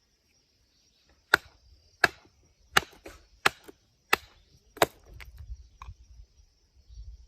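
An axe striking a log of firewood six times in a steady rhythm, about one blow every 0.7 seconds, with smaller knocks after some blows; the log is not splitting.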